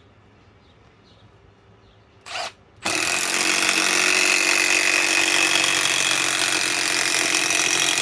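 Milwaukee M12 Fuel 3/8-inch stubby cordless impact wrench driving a lag bolt: after a short blip it starts about three seconds in and runs loud and steady.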